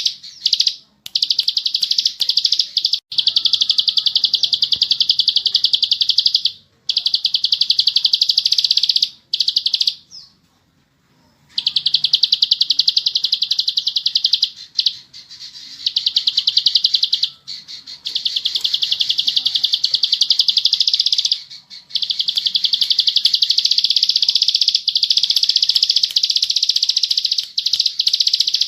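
Ciblek sawah, a prinia, singing a fast, buzzy, rattling trill ('ngebren') in long continuous bouts with brief breaks, and one longer pause about ten seconds in.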